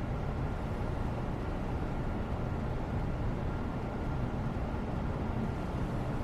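Steady background noise, a low rumble with a faint steady high tone, unchanging throughout.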